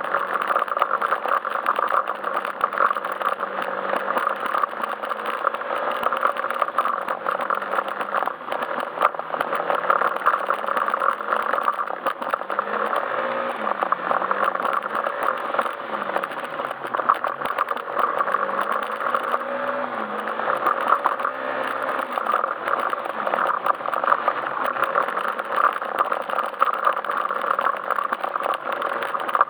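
Yamaha Majesty S scooter's single-cylinder engine running on the move, its pitch rising and falling over and over as the throttle changes, under a steady rush of wind and tyre noise.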